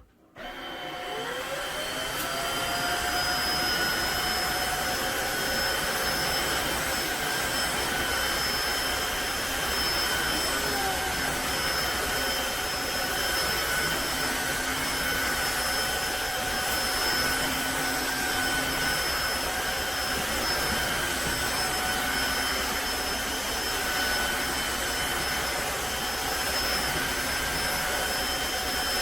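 Tineco iFLOOR 3 cordless wet-dry floor vacuum switched on: its motor spins up with a rising whine in the first couple of seconds, then runs steadily with a high whine.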